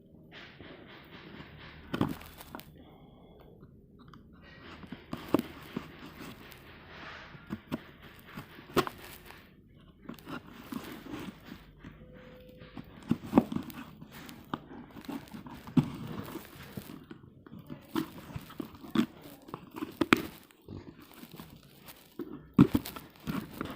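Parcel packaging being torn open and crinkled by hand, with scattered sharp clicks and knocks as the box is handled.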